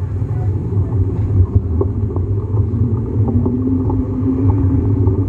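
A steady low rumble with scattered light clicks, and a faint humming tone that comes in about three seconds in and slowly rises.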